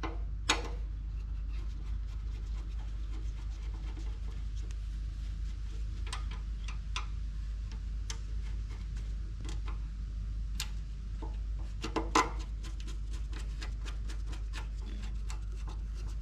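Scattered sharp clicks and light taps of hand tools and metal engine parts being handled at a workbench, with a quicker run of clicks about two-thirds of the way through, over a steady low hum.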